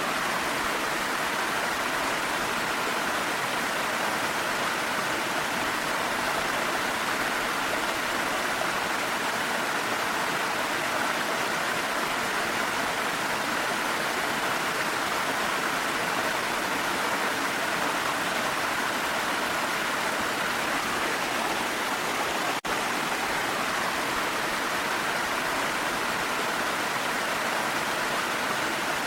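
Steady, even rushing of a waterfall's falling water, with one momentary drop in level about three-quarters of the way through.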